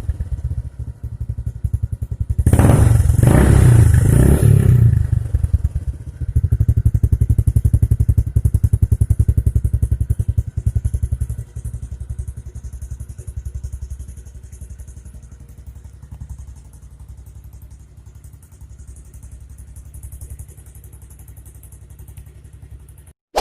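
Single-cylinder four-stroke engine of a Honda Supra X 125 FI running through a Tsugi racing muffler freshly repacked with new glasswool. It idles with a fast low exhaust pulse, gives a short blip of revs about two to five seconds in, then settles back to idle and grows quieter later on.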